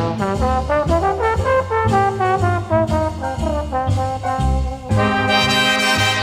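Instrumental break in a 1950s pop song: brass plays a melody of short notes over a bass line that changes note about every half second, with no singing.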